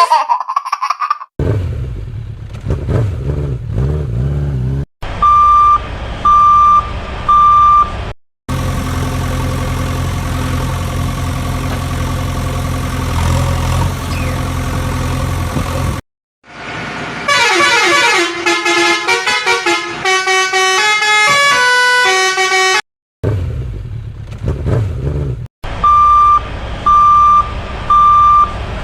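Cartoon vehicle sound effects: a steady engine drone, a horn beeping three short times twice, once a few seconds in and again near the end, and in the middle a run of stepping, mostly falling electronic tones.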